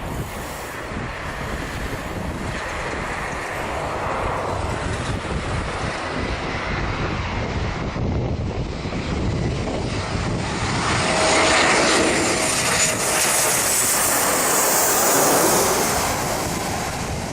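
Airplane engines running with a steady rushing noise that grows louder as the aircraft comes close, loudest about two-thirds of the way through, with a faint high whine over it.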